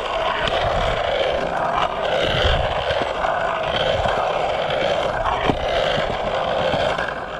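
Skateboard wheels rolling on concrete in a bowl: a steady rolling noise with a few light clicks, one about five and a half seconds in.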